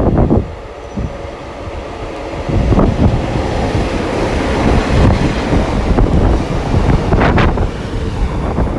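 Class 143 Pacer and Class 150 diesel multiple units running through the station without stopping, a loud rumble of engines and wheels on rails that swells about two and a half seconds in. Wind buffets the microphone.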